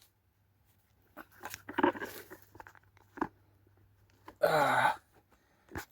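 Socket and ratchet being handled and fitted onto a brake caliper bolt: scattered metal clicks and scrapes, with one sharp click a little after three seconds. A brief grunt or murmur of a voice about four and a half seconds in.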